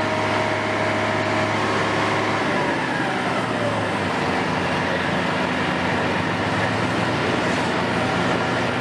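Heavy construction machine engine running steadily; its note shifts lower a few seconds in, with a brief falling whine.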